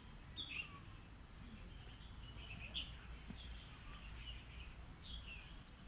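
Faint bird chirping: short high calls about every second, over a low background rumble.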